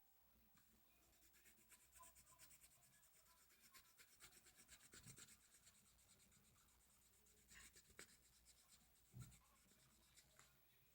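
Faint scratching of a felt-tip marker colouring on paper, in many quick short strokes.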